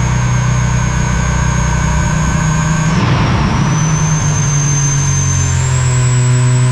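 Steady, loud aircraft engine drone with a high-pitched whine over a low hum. The sound changes abruptly about three seconds in, and the whine then climbs in steps.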